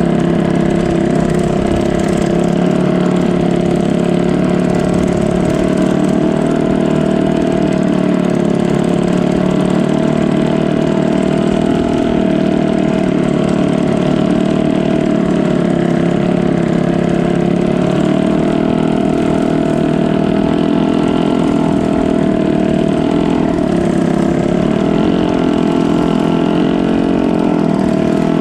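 Canal boat's engine running steadily at constant speed, its pitch wavering slightly about three-quarters of the way through.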